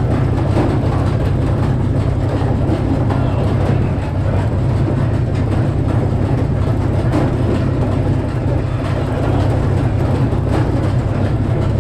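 Frick sawmill with a 48-inch circular saw running steadily: a loud, deep, even drone with a spread of mechanical noise and faint clicks here and there.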